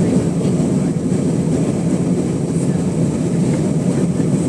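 Steady roar of an Airbus A320's cabin heard from a rear seat, with the CFM International CFM56-5A3 engines and airflow making a constant low rumble.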